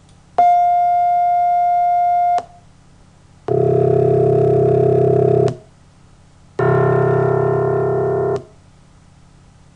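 Computer-generated test tones replicating a piano's C1 note: first a single pure tone of the newly sampled partial for about two seconds, then twice a low, many-pitched steady tone of about two seconds, the sum of pure tones built up so far. Each starts and stops abruptly.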